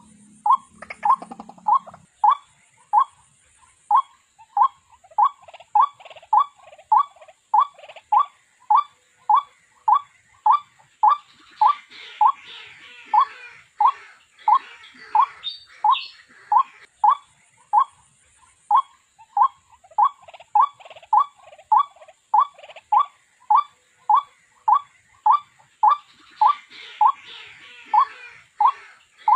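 White-breasted waterhen call played as a trapping lure: a steady run of short, repeated 'kuk' notes, about three every two seconds, without a break.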